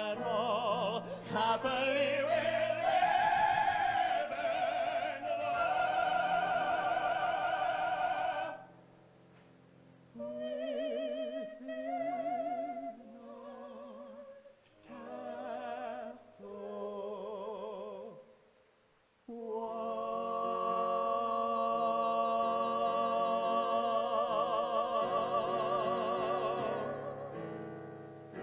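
Two musical-theatre singers singing the closing phrases of a romantic duet in a legato, operatic style with strong vibrato, over keyboard accompaniment. The phrases are full and loud at first, soften through the middle, and end on one long held note from about two-thirds of the way in that fades away near the end.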